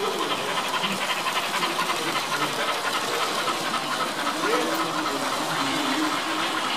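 Sound decoder of a Märklin HO class 39 model steam locomotive chuffing steadily with a hiss of steam, over the murmur of a crowd.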